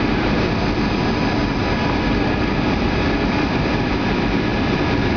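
Boeing 757-200 airliner heard from inside the passenger cabin: a steady, unchanging rush of jet engine and airflow noise with faint steady whining tones.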